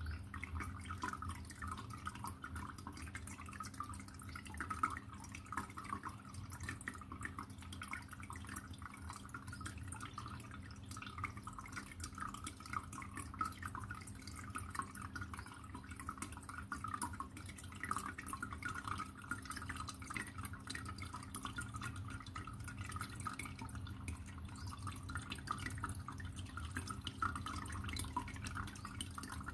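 Aquarium water trickling and dripping steadily, a continuous fine splashing over a steady low hum.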